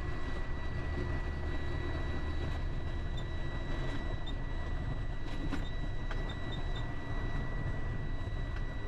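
Delivery truck cab interior while driving: steady low engine and road rumble, with a thin steady high tone running over it and a few faint ticks.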